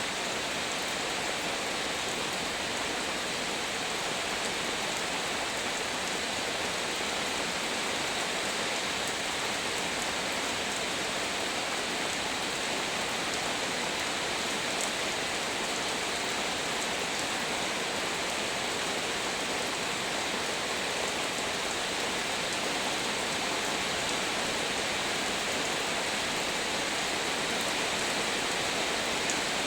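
Heavy rain falling steadily: an even, unbroken hiss of rain that holds the same level throughout.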